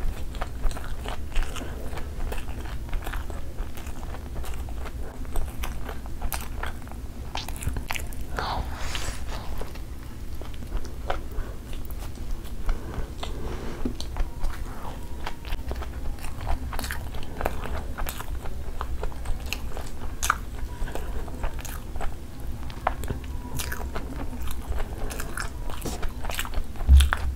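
Close-miked chewing and biting of chicken shawarma, an irregular run of small crisp clicks with no pause. A single low thump sounds about a second before the end.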